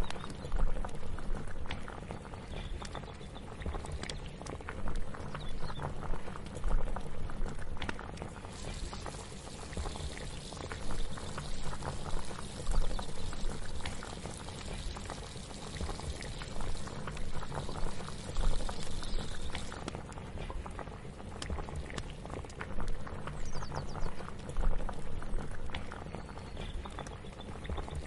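Kitchen ambience of a pot bubbling at a boil over a steady low hum, with a stretch of louder hissing from about nine to twenty seconds in.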